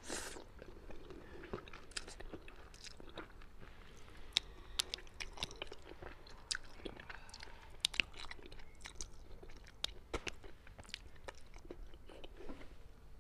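Close-miked chewing and biting of sauce-braised Chinese forest frog (snow clam), a steady run of short mouth clicks with occasional crunches.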